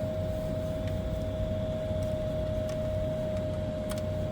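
Steady background hum with a constant mid-pitched whine over a low rumble, and a faint click about four seconds in.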